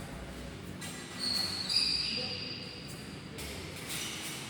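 Court shoes squeaking on a badminton hall floor: a few high squeals from about a second in, lasting about two seconds, over the hall's background rumble.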